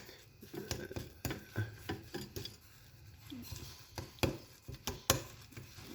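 A utensil scraping, clinking and tapping against a pot as a crumbly cooked paste is stirred and turned, in scattered short knocks.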